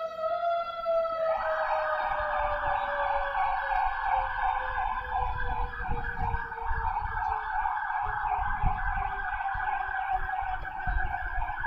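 Fire engine sirens: one siren tone slowly falling in pitch as it winds down, while a second siren in a fast warble starts about a second in and cuts off near the end, over a low rumble.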